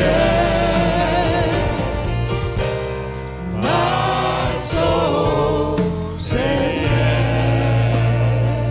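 Gospel worship song sung by a choir with live band accompaniment: long held notes with vibrato over a steady bass line.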